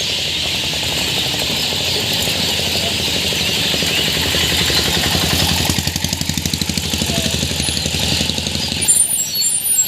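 Dense, continuous chatter of many small birds, with a low, fast rhythmic throbbing like an idling engine in the second half. Clear, high chirps come in near the end.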